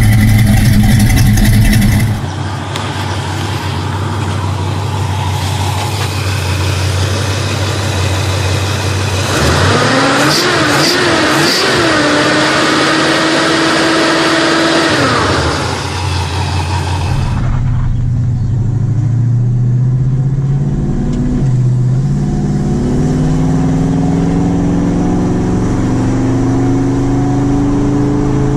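Classic muscle car V8 engines in a few back-to-back recordings. In the middle one the engine is blipped a few times, then held at high revs before dropping back. In the last one the engine note climbs steadily, with a short dip, as the car accelerates.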